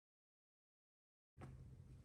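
Dead silence for over a second, then faint room tone with a low hum starting about a second and a half in.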